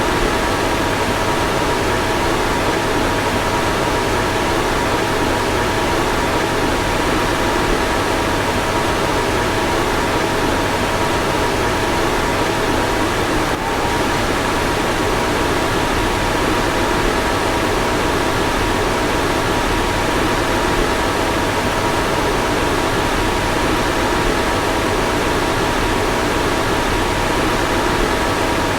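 A car's fan running steadily: an even rush of air with two faint steady hum tones above it.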